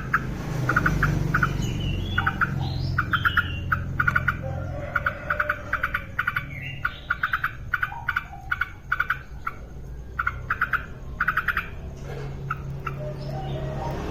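Yellow-vented bulbul (trucukan) calling actively: clusters of quick, short chattering notes repeated again and again, over a steady low hum.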